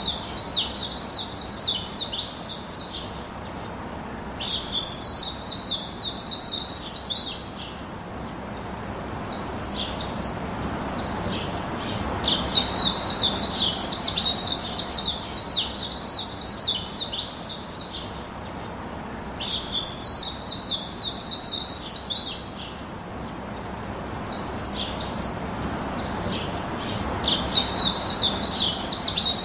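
A songbird singing repeated phrases of fast, high, trilled chirps, each lasting a few seconds with short pauses between, over a soft steady background rush.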